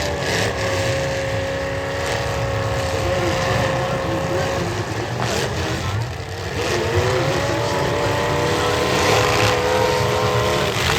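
Demolition derby car engines running hard at high revs, over a steady low rumble. The engine pitch holds, drops about six seconds in and climbs back up as the revs rise again.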